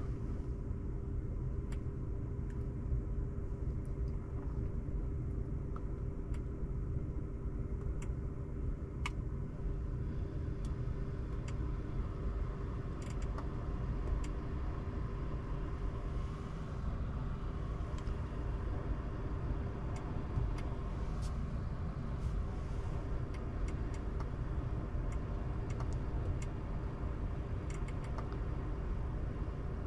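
Mercedes-Benz GLB350 driving, heard from inside the cabin: steady low road and tyre rumble with a constant hum, and scattered faint ticks.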